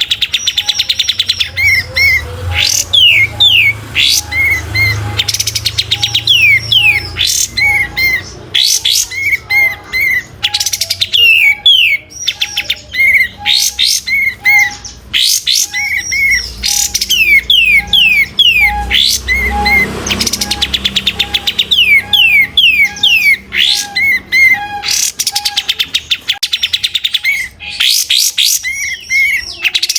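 Kapas tembak songbird singing loud, rapid chattering phrases of quick falling notes and paired short notes, repeated over and over without a break.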